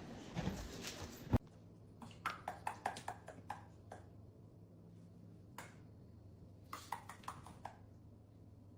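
A run of light, sharp clicks or taps, a few a second, then a single click and another short run, over a faint steady hum.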